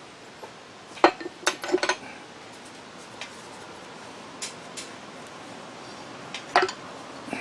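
Metal parts of a drill grinder motor clinking and clanking as they are handled and set down on a workbench: a quick cluster of knocks about a second in, a few light ticks, then another clank near the end.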